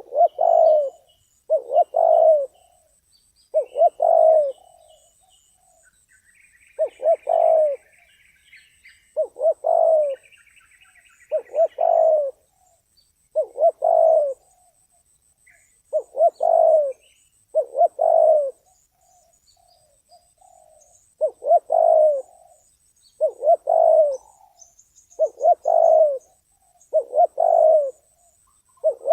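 Spotted dove cooing in a steady series of short phrases, one roughly every two seconds: the call of a trained decoy dove set out to lure wild doves. Faint chirps of small birds come in for a few seconds in the middle, over a thin, steady high whine.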